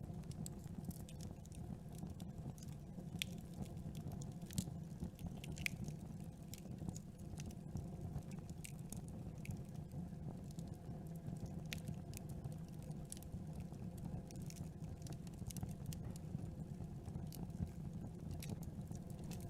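Campfire burning: a steady low rumble of the flames with irregular crackles and pops of burning wood.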